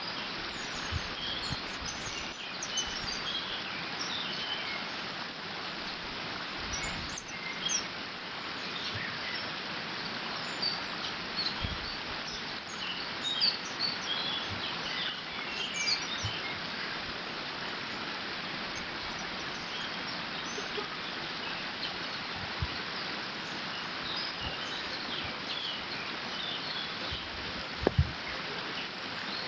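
Water running steadily through a beaver dam, with many small birds giving short high chirps, busiest in the first half. A brief low thump near the end.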